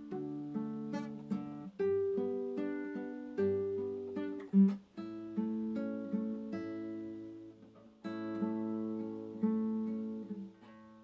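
Slow, gentle acoustic guitar music: notes and chords plucked one after another, each left to ring and fade. There is a brief louder accent about halfway through.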